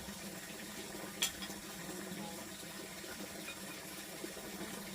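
Steady running water, with one sharp click about a second in.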